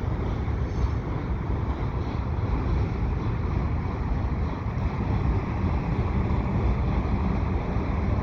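Wind buffeting the microphone over the steady low rumble of a long freight train's cars rolling past.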